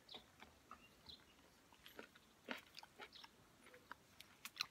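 A person chewing a ripe cherry plum close to the microphone: faint, irregular wet mouth clicks and smacks.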